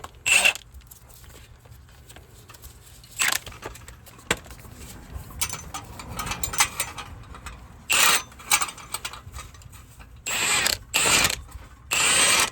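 Impact wrench running down the nuts on exhaust muffler clamps in short trigger bursts, about seven of them, more closely spaced near the end.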